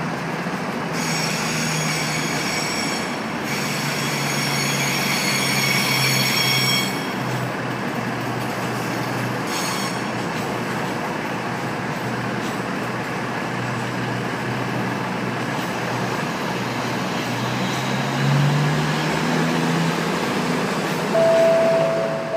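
A train moving through a station platform, its wheels squealing high-pitched on the rails for several seconds, over a steady low engine drone that rises near the end. A two-note chime sounds just before the end.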